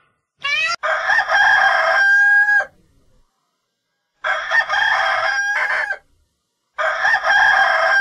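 Rooster crowing three times, each crow ending in a held note, with short pauses between.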